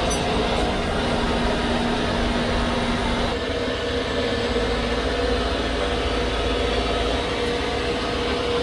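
Heavy tow truck's diesel engine running steadily with a low hum; about three seconds in, its tone steps up in pitch.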